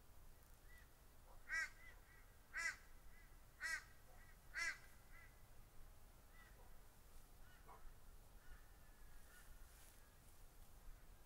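A bird calling four times, about a second apart, followed by a few fainter calls over a quiet background.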